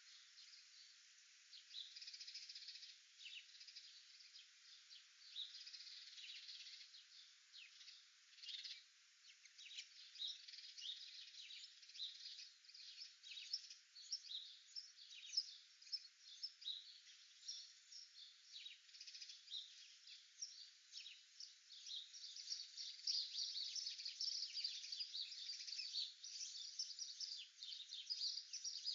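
Faint chorus of small birds chirping and twittering: many short, high chirps overlapping, growing busier and louder over the last several seconds.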